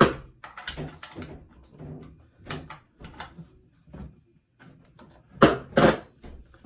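Clicks and clatter of an Echo chainsaw's bar and chain being handled while the chain is fitted and its tension tightened. Near the end come two louder knocks about half a second apart.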